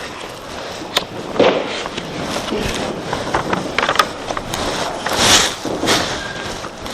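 A congregation sitting down: shuffling, clothes rustling, and scattered knocks and scrapes of seats, with a louder rustle about five seconds in.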